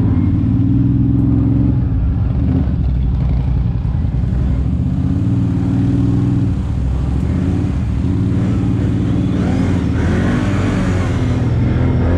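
ATV engine running under way, its pitch shifting as the throttle changes. About eight seconds in a rushing hiss joins it for a few seconds.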